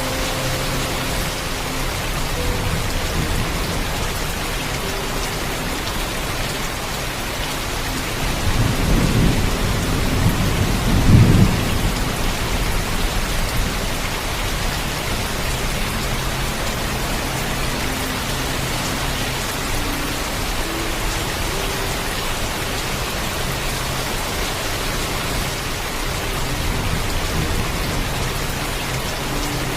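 Steady heavy rain pouring, with a low rumble of thunder that builds about eight seconds in and peaks a few seconds later before fading back into the rain.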